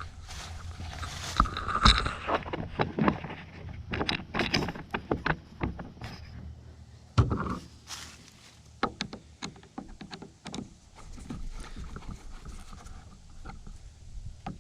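Handling noise from fitting and tightening a cap on the anchor pole's pipe: a run of irregular clicks, knocks and scrapes, the loudest knocks about two seconds in and again about seven seconds in, over a steady low rumble.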